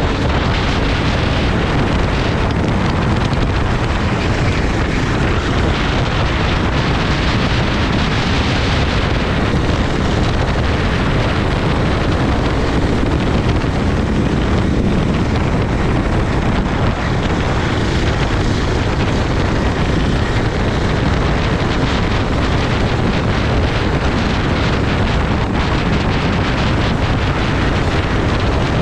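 Wind rushing over the microphone of a racing kart at speed, with the kart's engine running underneath. The noise is steady and loud throughout.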